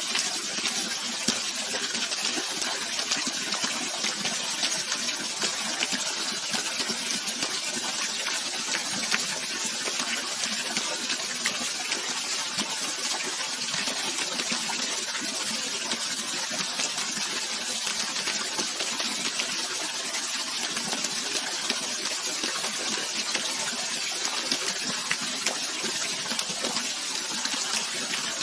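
Running water rushing steadily, with constant fine splashing and no change throughout.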